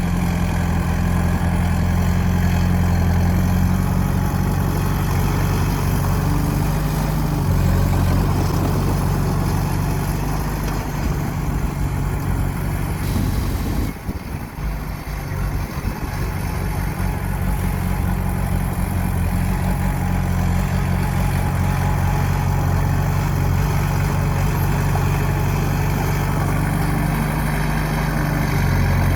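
Heavy earthmoving machine's engine running steadily, with a low, even note that dips and roughens for a couple of seconds about halfway through before settling back.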